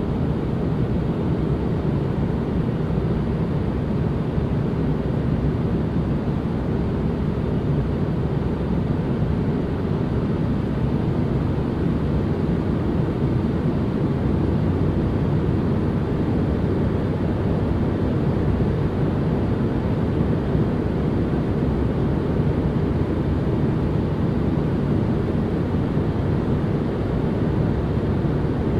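Steady white-noise ambience: an even, unbroken rush of noise, heavy in the low end and thin in the highs, with no change in level or texture.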